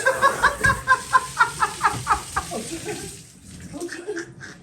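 High-pitched cackling laughter in quick pulses, about four a second, dying away after about two and a half seconds, over the hiss of running shower water.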